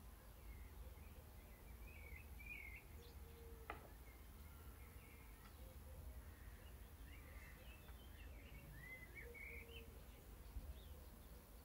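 Faint birds chirping over a low steady hum, with a single sharp click a little under four seconds in.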